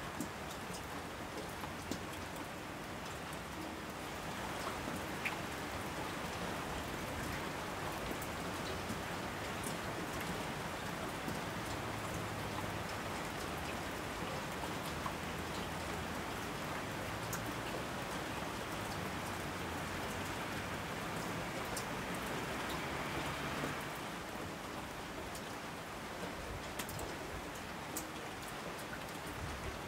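Steady rain falling, with scattered single drops ticking. It grows a little louder a few seconds in and eases off again near the end.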